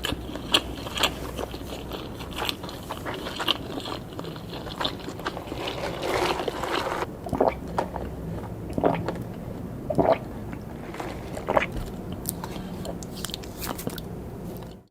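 Close-up chewing and biting of grilled pork skewers and sausages: wet, squishy mouth sounds with many small sharp clicks. The sound stops abruptly at the very end.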